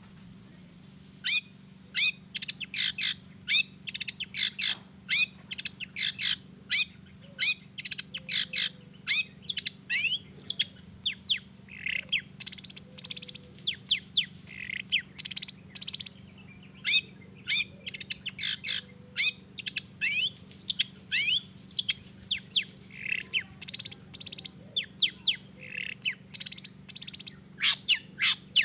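Long-tailed shrike (cendet) singing vigorously: a fast, unbroken run of short, sharp, downward-sliding notes mixed with harsher scratchy calls, starting about a second in.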